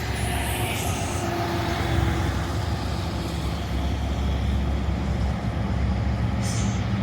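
Diesel-electric freight locomotives running, a steady low engine rumble, with brief high-pitched sounds near the start and again about six and a half seconds in.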